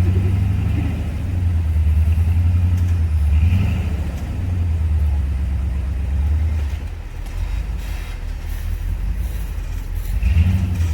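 Off-road vehicle engine running with a deep, steady rumble that eases off about two-thirds of the way through and picks up again near the end.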